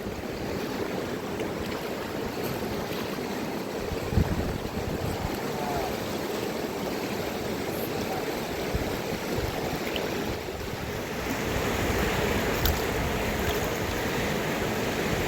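Steady rush of flowing river water, with irregular low wind buffeting on the microphone and a single knock about four seconds in.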